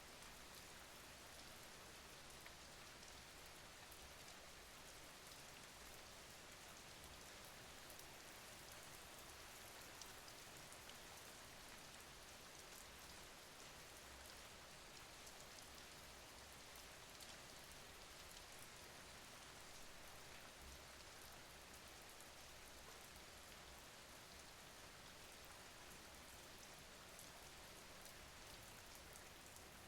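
Faint, steady rain: an even hiss of rainfall with scattered small drop ticks.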